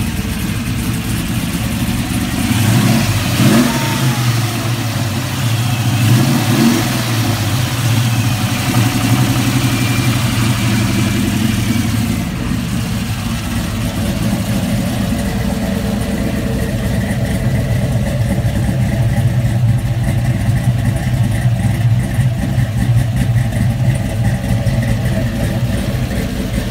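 The freshly swapped-in LS6 V8 in a 1973 Camaro running just after being started. It is revved up briefly twice in the first several seconds, then settles into a steady idle.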